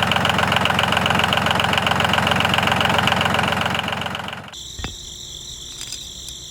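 An engine-like running sound with a fast, even pulse. About two-thirds of the way in it cuts off abruptly to a much quieter steady high whine, with a single click.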